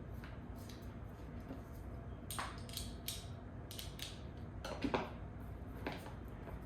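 Scattered clicks, knocks and scrapes of an office chair's metal seat mechanism and its screws being handled and fitted during assembly, with a louder knock about five seconds in.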